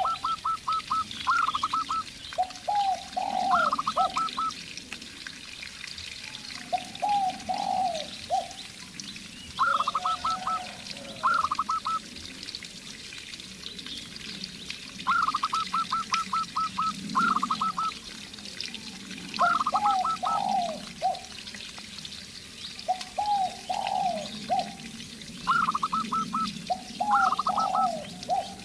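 Zebra dove and spotted dove calling back and forth. The zebra dove gives quick runs of short, high staccato notes, and the spotted dove answers with lower, falling coos, each in bursts a second or two long every few seconds.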